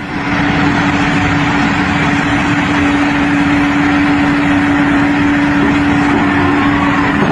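An engine or machine running steadily, with a constant droning tone over a rushing noise.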